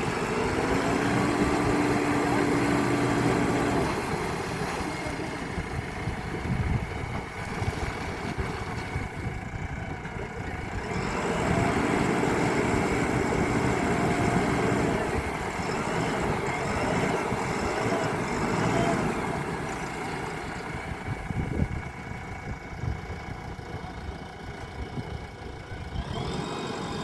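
An engine running steadily at idle, with a dense hiss under it.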